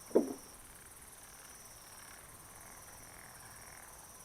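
A frog croaks once, short and loud, just after the start. A steady high-pitched insect trill and fainter frog calls continue behind it.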